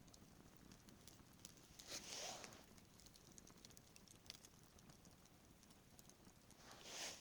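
Wood fire crackling quietly, with faint scattered pops and two soft hissing swells, one about two seconds in and one near the end.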